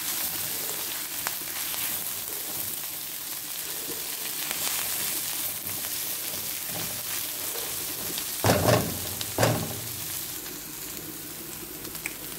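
Chopped onion, garlic and corned beef sizzling in oil in a nonstick wok while a spatula stirs them, a steady frying hiss. Two louder knocks come about two-thirds of the way through.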